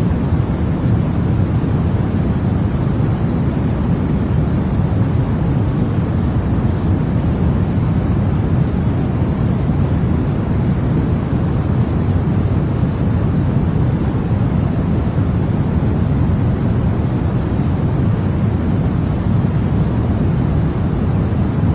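Continuous baby-sleep white noise: an even, unchanging rushing hiss, deep and heavy in the low end.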